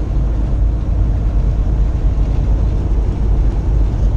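2015 Kenworth T680 semi truck heard from inside the cab: a steady low rumble of the engine running.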